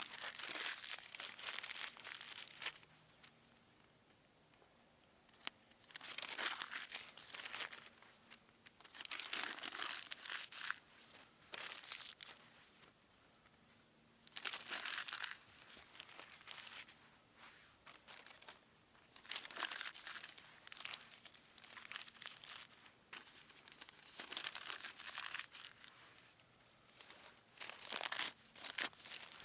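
Crinkly material being handled and rustled, in repeated bursts of a second or two with short pauses between.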